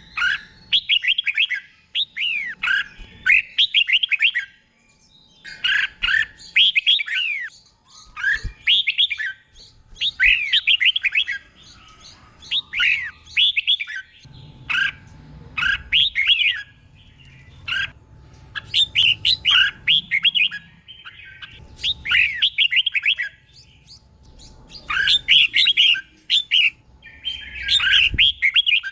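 Red-whiskered bulbul singing: short phrases of quick, falling notes, repeated every second or two with brief pauses between them.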